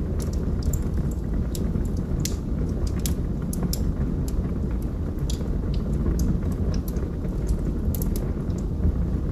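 Wood fire burning in a fireplace: a steady low rumble of flames with irregular sharp crackles and pops from the burning logs, about two or three a second.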